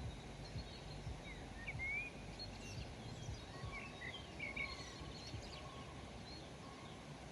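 Songbirds chirping and calling in short notes and quick rising and falling glides, busiest in the middle few seconds, over a steady low rumble of background noise.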